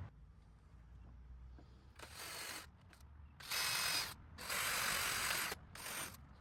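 Cordless drill driving screws into wooden fence planks in four short bursts, the longest about a second, each with a rattling, ratchet-like clatter over the motor.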